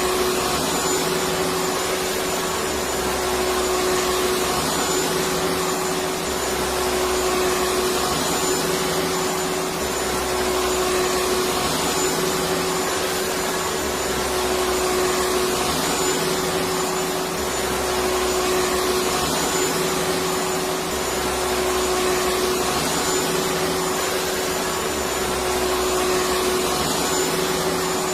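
Vacuum cleaner motor running continuously: a steady rushing whine with one constant tone, and a low rumble that swells and eases every couple of seconds.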